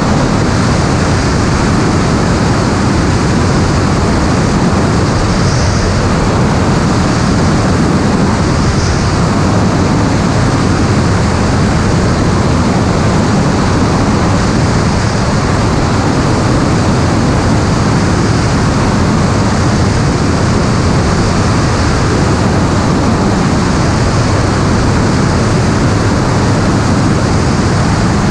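Steady, loud rushing noise of an aircraft in flight, heard from on board: engine or propeller noise mixed with airflow over the microphone, unchanging throughout.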